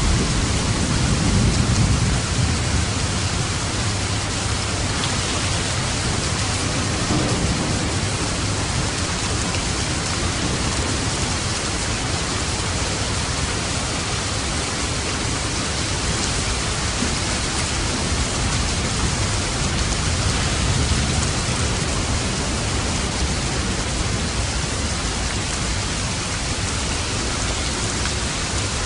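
Heavy, steady rain, with low thunder rumbling, strongest in the first couple of seconds.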